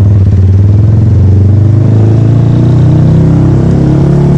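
Italika Black Bird motorcycle engine running while riding, its pitch climbing gently from about two seconds in as it pulls away, then easing off near the end.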